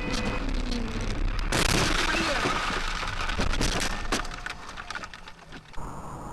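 Car crash caught on a dash cam: a sudden loud impact about a second and a half in, followed by a couple of seconds of cracking and breaking as parts crumple and shatter.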